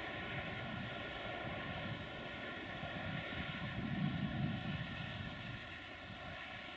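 Distant diesel-hauled passenger train running, a steady drone and rumble of the locomotive engine and wheels, swelling briefly about four seconds in.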